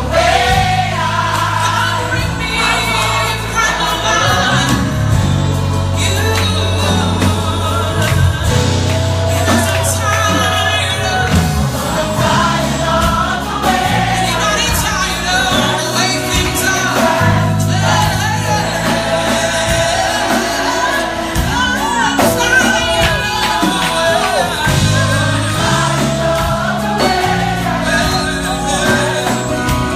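Gospel choir singing with a live band: sustained bass notes, drums and a lead voice over the choir.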